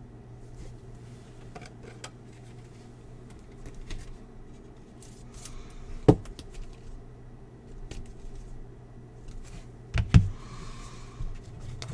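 Baseball cards being handled and flipped through, with faint rustling and clicking and a few sharper taps about six seconds and ten seconds in, over a low steady hum.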